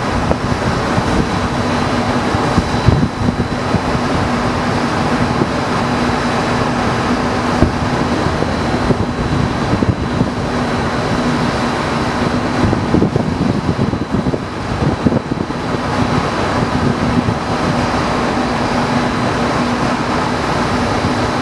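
Distant fireworks shells bursting as a few dull thumps, over a steady rumble of wind on the microphone and a low hum.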